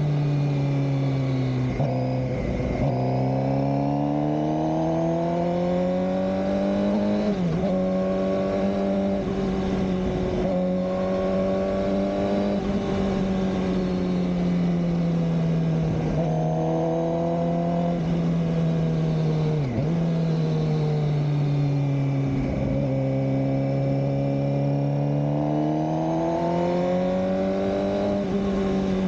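2007 Suzuki GSX-R600 (K7) inline-four engine under way, its pitch climbing and easing with the throttle. About five times the revs dip sharply for a moment and recover.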